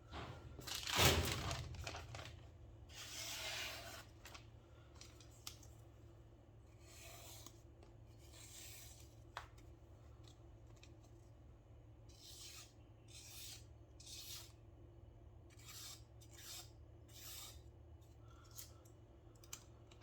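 Shigeki Tanaka 180 mm gyuto being stropped: a string of soft rasping swishes, one pass per stroke of the blade. The first strokes are the strongest, and the later passes are fainter and come about every second.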